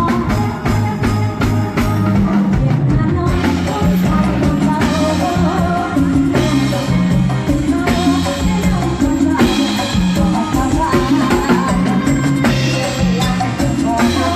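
A live band playing loudly over a PA, with drum kit and a bass line that moves on the beat.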